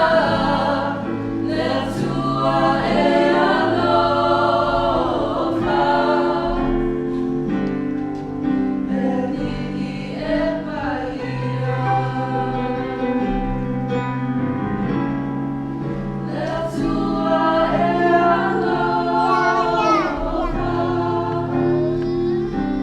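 A small group of voices singing a slow gospel-style song, with long held notes over sustained low accompaniment chords.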